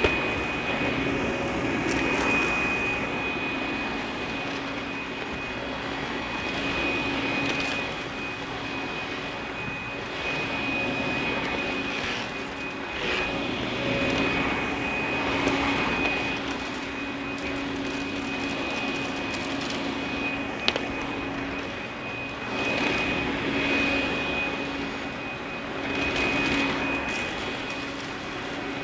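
Russell Hobbs Athena 2 Pet upright vacuum cleaner running on a hardwood floor: a steady high motor whine over rushing air, swelling and easing every couple of seconds as it is pushed back and forth. A single sharp click about two-thirds of the way through.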